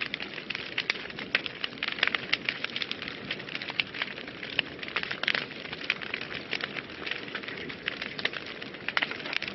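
Wood fire burning in a fireplace: a steady hiss with many sharp, irregular crackles and pops, several a second.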